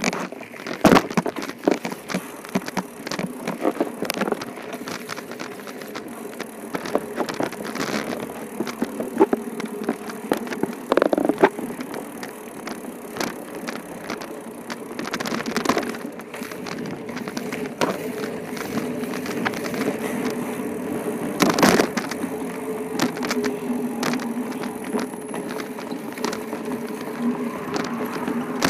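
Bicycle rattling and clicking, with many sharp knocks. A steady low hum sets in around the middle and runs on.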